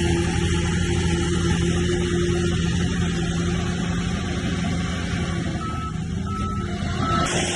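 Heavy diesel engine of earthmoving machinery running steadily under load, with three short high beeps near the end.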